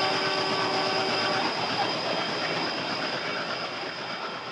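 A train rolling past on the rails, with a steady high whine over the rolling noise, gradually fading as it moves away.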